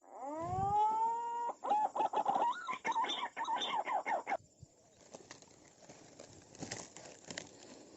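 A bird calling loudly: one rising note held for about a second, then a fast warbling run of notes that stops abruptly after a few seconds, followed by faint rustling and a few light clicks.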